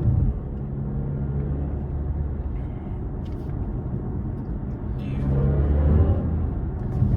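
Inside a BMW under hard acceleration: a low, steady drive hum with pitched tones that sweep upward and grow louder at about five seconds in. This is the car's spaceship-like synthesized drive sound.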